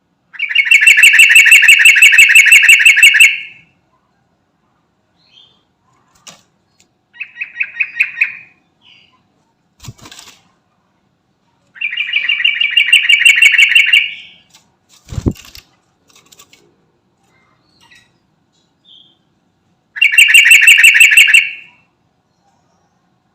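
Yellow-vented bulbul (trucukan) singing in four bursts of fast, rapidly repeated notes, the longest about three seconds, with a short phrase between. Between phrases there are two sharp knocks, the second about 15 seconds in.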